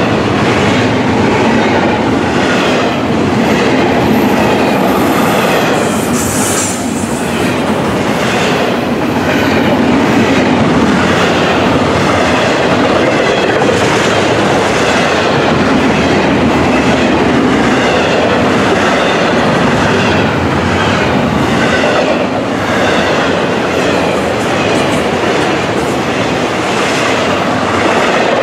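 Freight train cars passing close by on the Florida East Coast Railway, loaded with double-stack containers and trailers on flatcars. Their steel wheels make a steady loud roll on the rails, with repeated clickety-clack as wheels cross rail joints.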